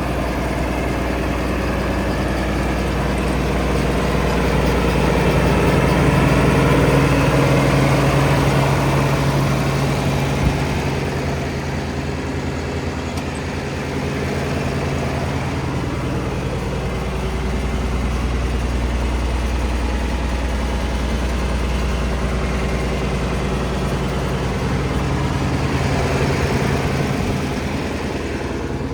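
1972 John Deere 4620's turbocharged inline six-cylinder diesel engine idling steadily, growing louder for a few seconds about a quarter of the way in, with a single short knock.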